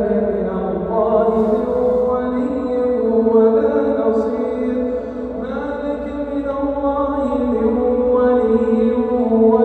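A man's voice reciting the Quran in slow melodic chant, drawing out long held notes that glide up and down in pitch, with a brief break about five seconds in.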